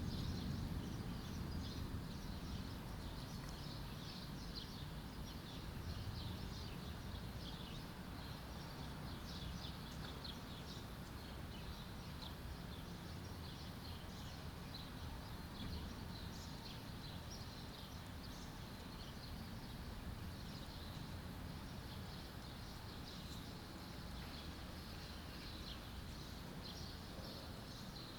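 The tail of a thunderclap dies away in the first couple of seconds, leaving a steady low background noise. Small birds chirp throughout with many short, high calls.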